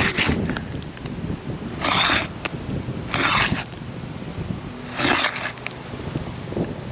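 Asphalt shingle tabs being pried up and pulled free from their sealant strips: three short ripping sounds, a second or two apart, as the tabs tear loose and delaminate.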